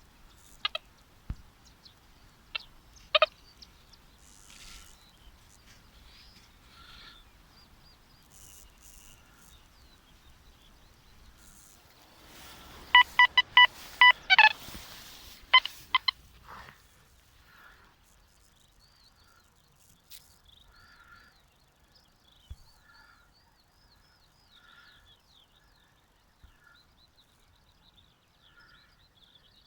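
Deteknix Quest Q40 metal detector giving a rapid run of about ten short electronic beeps as the coil passes over a target. A few short sharp sounds come early on, and faint bird chirps follow.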